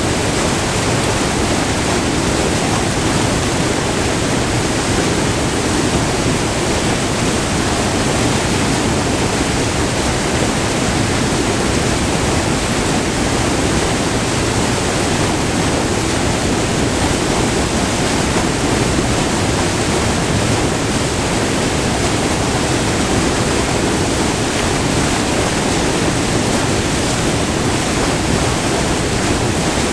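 Small multi-tiered river waterfall: white water pouring over rock in a steady, unbroken rush.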